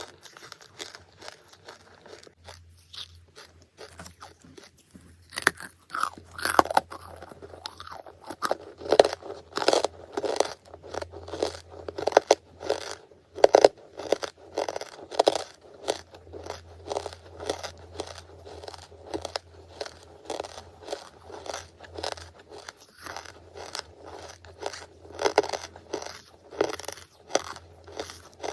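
Close-miked crunching and chewing of charcoal, with rapid crisp crackles as pieces are bitten and ground between the teeth. It is quieter for the first few seconds, then becomes dense and loud.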